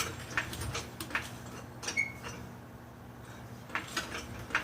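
Jack being worked to raise the Jeep until its weight comes onto the leaf springs. There is a run of sharp metallic clicks, two to three a second, a brief high squeak about two seconds in, and a few more clicks near the end.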